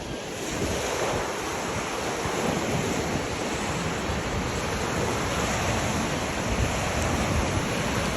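Ocean surf breaking and washing on a beach, a steady rush of waves, with wind buffeting the microphone.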